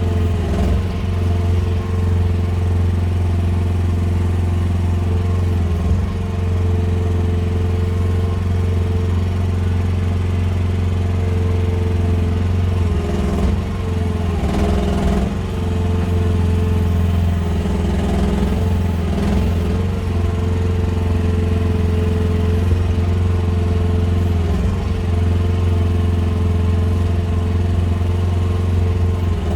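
QH13R mini excavator's engine running steadily under work, its pitch dipping briefly several times as the hydraulics take load.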